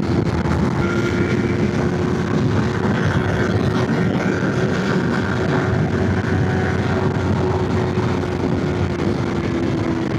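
Motorcycle engine running at a steady cruise, holding one even note, with wind rushing over the microphone.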